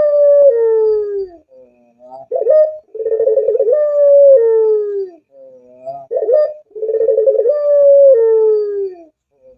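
Puter pelung dove cooing. Its phrase repeats about every three and a half seconds: a short rising note, then a long rolling, trilled coo that drops in pitch at the end.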